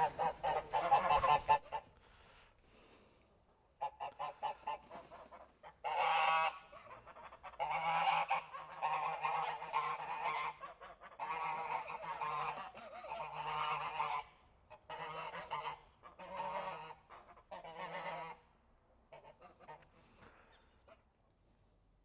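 Repeated honking bird calls, some in quick runs and some drawn out, thinning out and stopping near the end.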